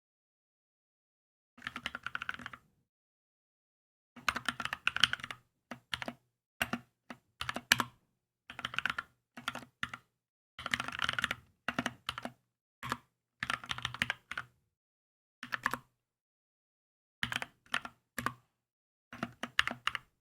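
Typing on a Keychron K2 mechanical keyboard: quick runs of keystrokes in short bursts separated by silent pauses, the first burst coming about two seconds in.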